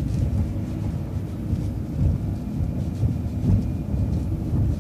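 City transit bus under way, heard from inside: a steady low engine and road rumble.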